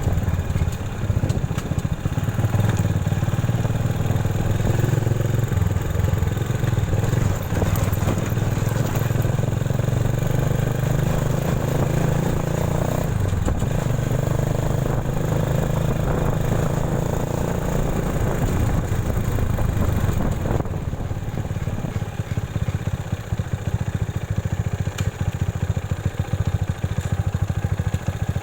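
Motorcycle engine running steadily under way, easing off and getting a little quieter about two-thirds of the way through.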